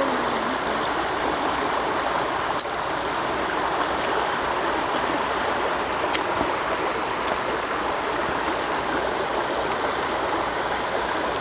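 Steady rushing noise like running water, with a few sharp clicks, the loudest about two and a half seconds in.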